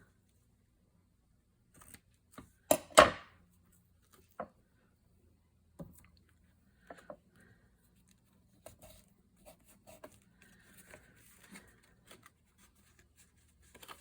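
Paper and tape being handled and cut. About three seconds in there is a sharp click followed by a short rip, the loudest sound, and then scattered light taps and paper rustles.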